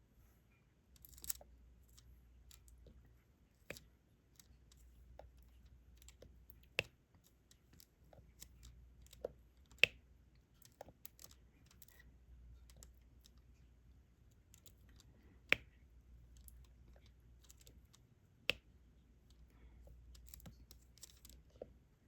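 Diamond painting drill pen pressing small drills onto the sticky canvas: irregular sharp clicks a few seconds apart, with fainter ticks between, over a faint low hum.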